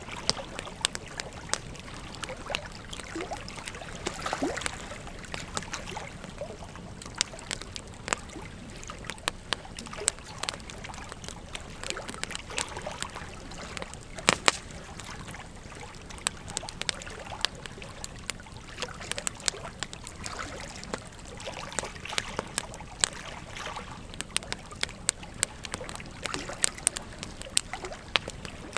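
Campfire burning: wood crackling with irregular sharp pops over a steady hiss of flame, one louder pop about halfway through.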